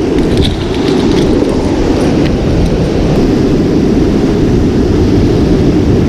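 Wind buffeting the microphone: a loud, steady low rumble, with a few faint clicks in the first two seconds.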